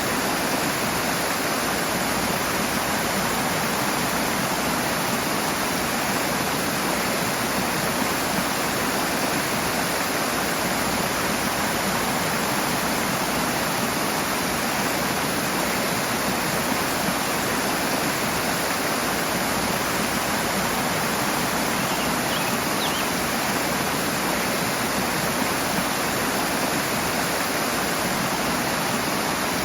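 Rushing water in a stream, a steady full rush without pauses.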